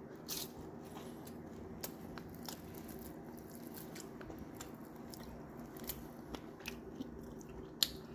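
Close-up eating sounds of someone chewing a mouthful of rice with fried fish: scattered short wet smacks and clicks, the sharpest one near the end, over a steady low hum.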